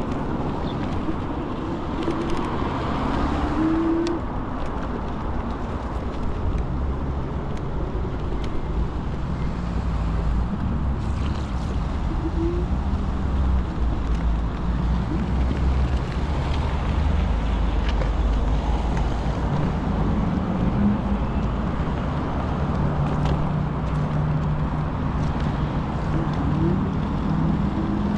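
Road-ride noise on an electric scooter: a steady low rumble of wind and tyre noise, with motor traffic around it.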